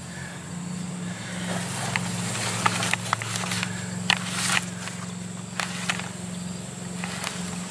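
Scattered metallic clicks and clinks of wrenches and fittings as a hydraulic hose is worked into place and tightened, over a steady low hum.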